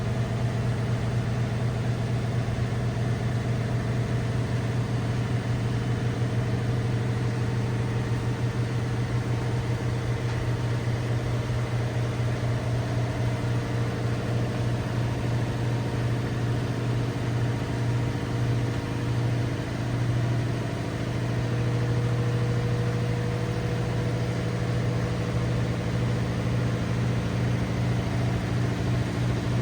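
LG WT7600HVA top-load washer running with a steady, loud low hum that pulses evenly, easing briefly about twenty seconds in.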